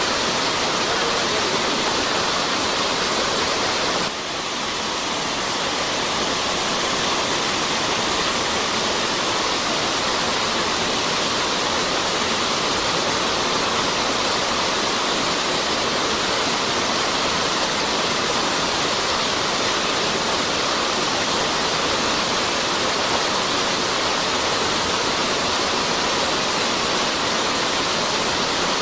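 Steady rushing hiss that dips briefly about four seconds in.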